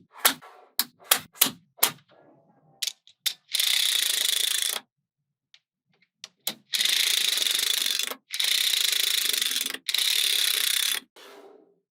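Small magnetic balls clicking sharply together several times, then four long runs of fast ratchet-like rattling with abrupt starts and stops.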